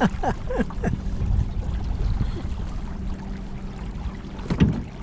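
Wind rumbling on the microphone and water against a small boat, over a steady low hum. A few short sliding sounds come in the first second, and there is a brief knock near the end.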